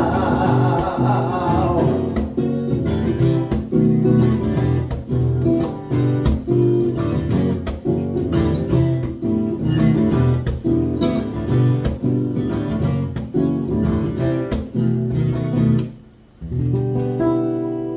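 Acoustic guitar strummed in a fast, rhythmic pattern of chords, the last sung note trailing off at the start; near the end it stops briefly and then comes back with a few ringing chords.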